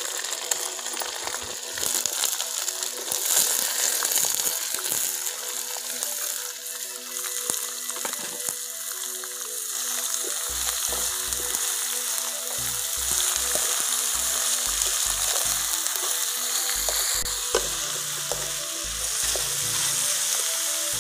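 Chopped ridge gourd sizzling in hot oil and tempering in a metal kadai, the cubes dropping in at the start and then stirred with a wooden spatula, with scraping and clicks against the pan. From about halfway through, short low thuds repeat under the sizzle.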